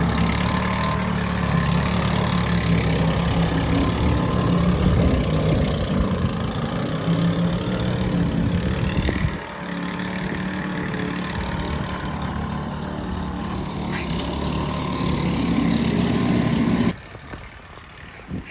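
A motor vehicle's engine idling with a steady low hum, dipping briefly about halfway through and dropping away sharply near the end.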